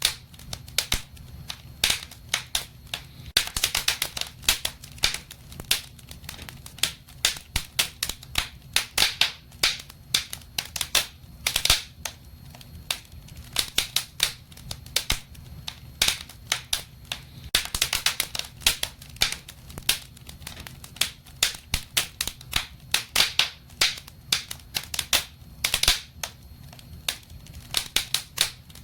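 Wood fire burning in a fireplace, crackling and popping with many sharp irregular snaps, some in quick clusters, over a low steady rumble of the flames.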